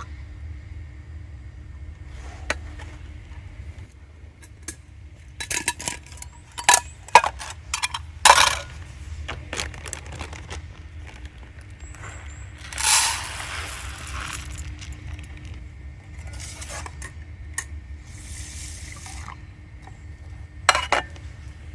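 Metal cookware and utensils clinking and tapping in irregular clusters, with a short hissing rush about thirteen seconds in.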